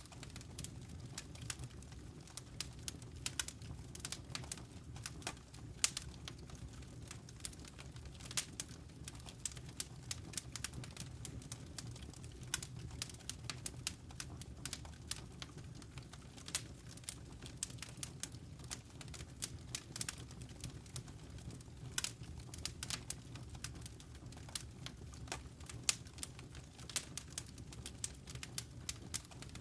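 Wood fire in a fireplace crackling: many irregular sharp pops and snaps, several a second, over a steady low rumble of burning.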